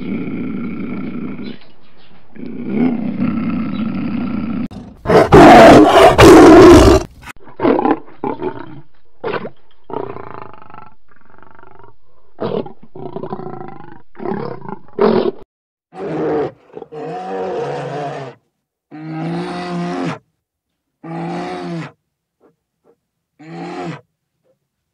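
A big cat roaring. The loudest roar comes about five seconds in, followed by a string of shorter calls with pauses between them.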